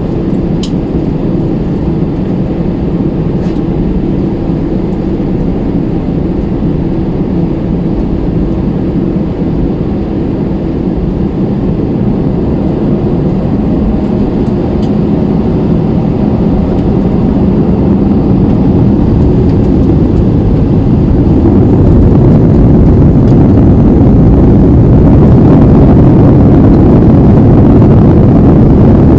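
Airbus A320 engines and airframe rumble heard from inside the passenger cabin, growing steadily louder over the second half and then holding: engine thrust building for the takeoff run.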